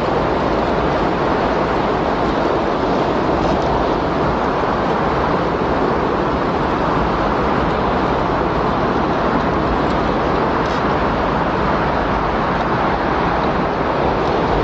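Windstorm ambience: a loud, steady rush of wind noise that holds an even level throughout.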